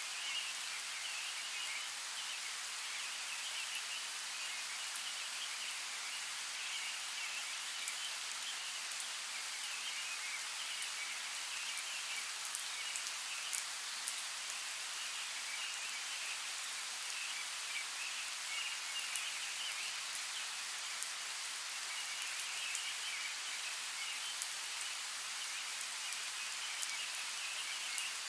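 Steady rain, an even hiss with scattered sharp drip ticks.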